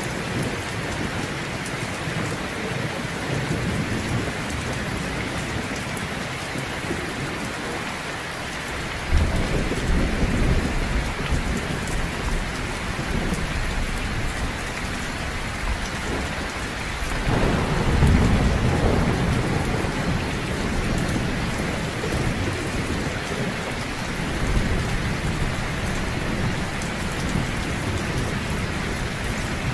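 Heavy rain falling steadily in a thunderstorm, with rolling thunder rumbling in about a third of the way through and a louder roll a little past halfway.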